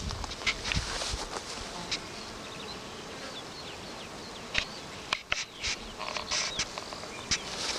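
Bees buzzing steadily, with a few faint high chirps and several sharp short clicks or rustles in the second half.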